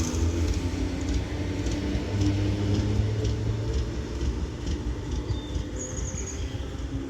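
Northern Class 769 bi-mode unit pulling away from the platform with its engines running, the rumble slowly fading as it leaves. A bird chirps briefly near the end.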